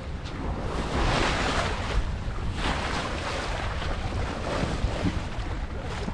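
Wind buffeting the microphone over the wash of sea water along a sailboat's hull while under way, with no engine running. A louder surge of rushing water comes about a second in.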